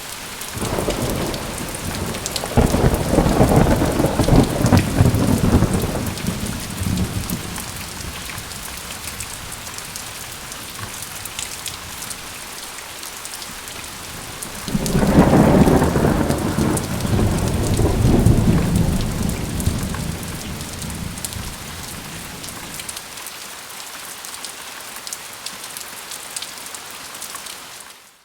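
Steady rain with two long rolls of thunder: the first rumbles in straight away and lasts about six seconds, the second comes about halfway through and rolls on for about six seconds before fading back to the rain.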